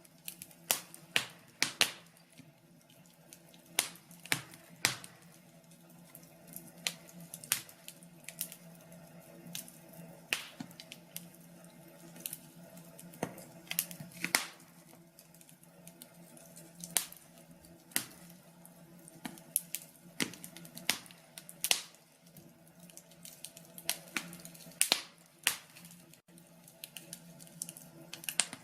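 Wood fire in a fireplace crackling, with sharp pops at uneven intervals, several louder snaps among many small ones.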